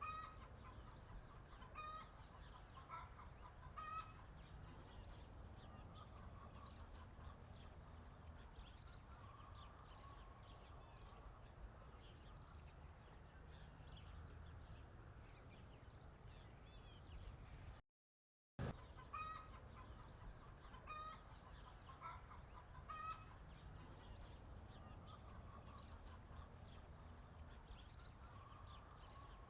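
Faint farm ambience: chickens clucking at scattered intervals, with short higher chirps over a low steady rumble. The sound cuts out completely for under a second about two-thirds of the way through.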